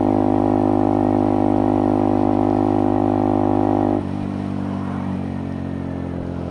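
Motorcycle engine running steadily under way, then dropping abruptly to a lower, quieter note about four seconds in.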